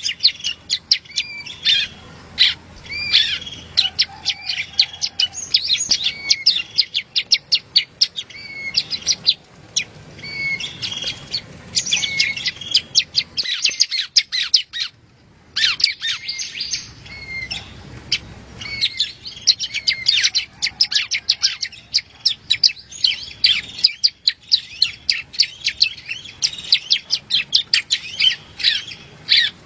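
Yellow-bellied prinia (prenjak rowo) singing: a dense, fast stream of short, sharp chirps, with a brief pause about halfway through.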